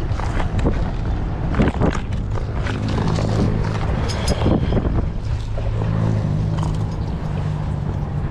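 A motor vehicle's engine running with a steady low hum, over scattered knocks and rustling noise.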